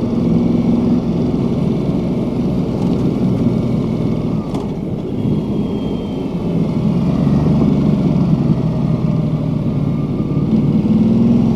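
Ducati Multistrada 1200 Enduro's 1198 cc L-twin engine running while the bike is ridden, over a steady rush of wind and road noise. The engine eases off a little around the middle and pulls harder again later on.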